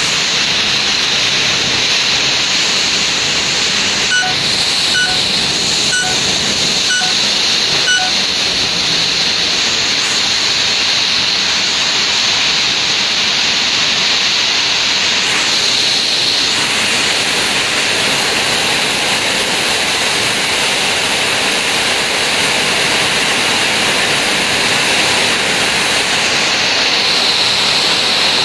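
Hailstorm: hail and rain pelting down steadily in a strong wind, a dense, unbroken hiss. About four seconds in, five short beeps sound about a second apart.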